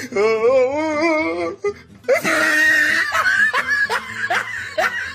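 A voice laughing in a run of short rising yelps, after a drawn-out wavering cry at the start.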